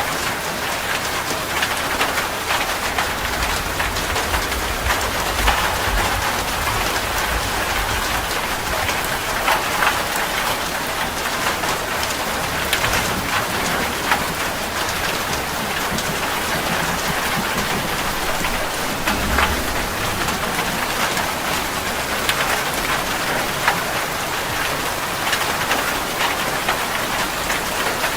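Heavy rain drumming steadily on a metal roof, with many sharp drop impacts. Low rumbles of thunder come in a few seconds in and again past the middle.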